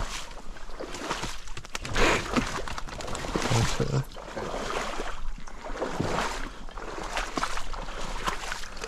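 Irregular splashing and sloshing of shallow marsh water, with rustling, in uneven bursts.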